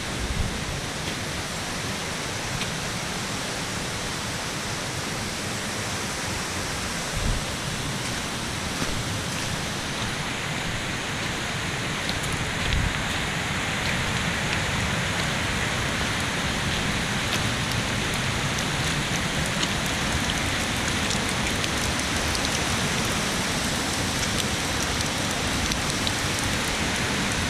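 Steady rain falling: an even hiss with scattered sharper drop ticks and a few soft low thumps, growing a little louder from about ten seconds in.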